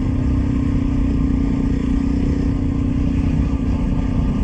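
Hero XPulse motorcycle's single-cylinder engine running at an even, steady pace while being ridden.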